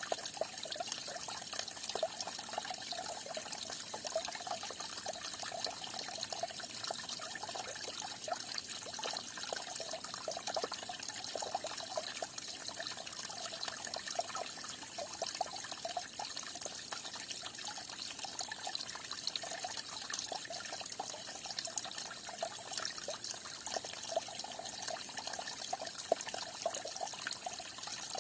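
Falling water splashing and trickling steadily, with a busy, flickering patter and no pause or change.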